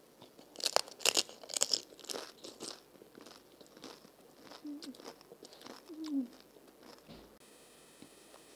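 Crisp, hollow fried panipuri shell crunching as it is bitten and broken in the mouth, several loud sharp crunches in the first three seconds, then quieter moist chewing of the filled puri.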